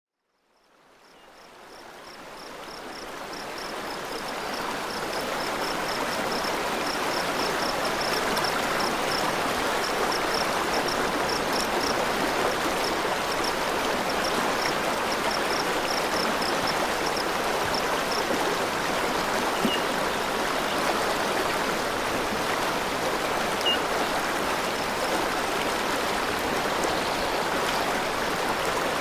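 Steady rush of running water from a mountain stream, fading in over the first few seconds and then holding level.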